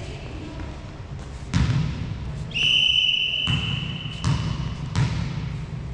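Referee's whistle blown in one steady blast of about a second. Around it, a volleyball thuds several times as it is hit and bounces on the hall floor.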